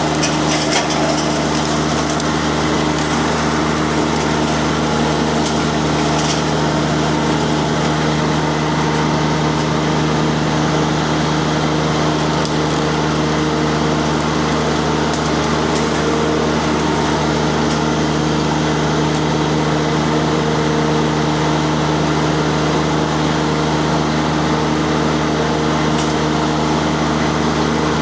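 Mini skid steer's diesel engine held at steady high speed driving a Termite disc mulcher, with a continuous spinning drone and scattered sharp cracks and ticks of wood and brush being chipped.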